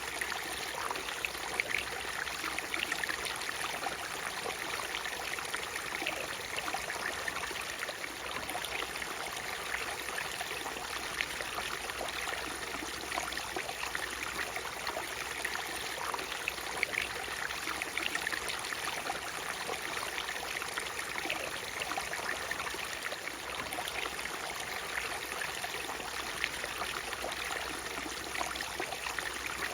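Water from a small waterfall splashing and trickling, a steady rush with many small splashes and no pauses.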